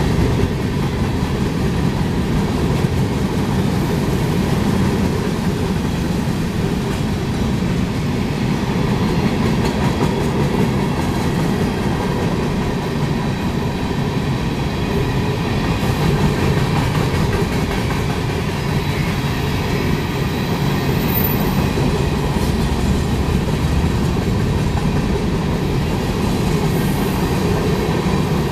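Freight train rolling past, a steady rumble of steel wheels on rail with clickety-clack from the cars.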